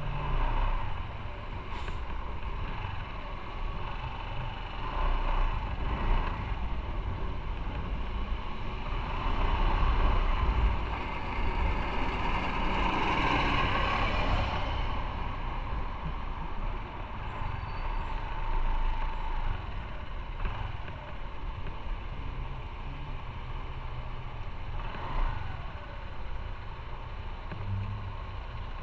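Motorcycle on the move in road traffic: a steady low engine and road rumble with wind rush, swelling louder about ten to fifteen seconds in.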